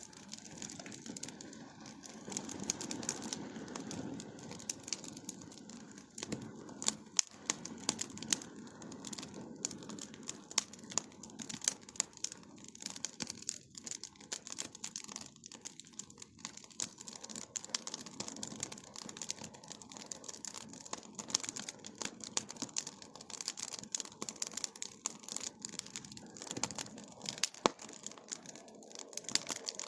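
Bonfire crackling, with many irregular sharp pops over a low steady rushing.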